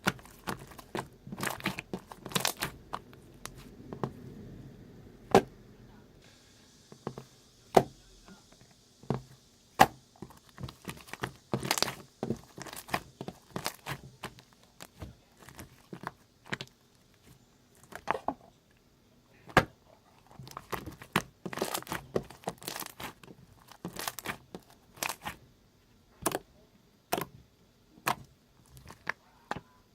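Slime being squeezed and stretched by hand, giving irregular sharp clicks and pops.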